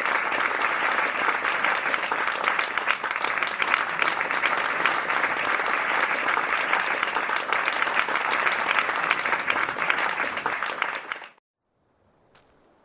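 Audience applauding, a dense steady clatter of many hands, which cuts off suddenly about 11 seconds in, leaving near silence with a few faint clicks.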